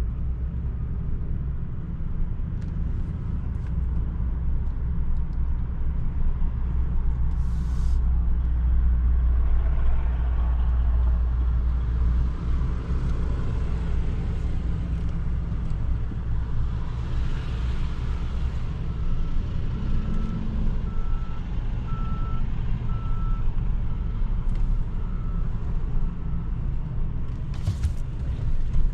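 Chevrolet Silverado pickup driving slowly, a steady low engine and road rumble heard from inside the cab that swells a little before the halfway point and then settles. Near two-thirds of the way in, a run of short high beeps repeats for several seconds.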